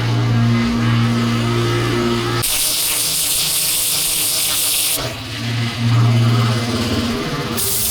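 Pressure washer at work: a steady low motor hum alternates with loud hissing water spray, which starts about two and a half seconds in, stops about five seconds in and starts again near the end.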